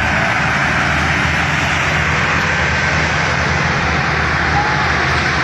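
Tractor diesel engine running steadily and loud.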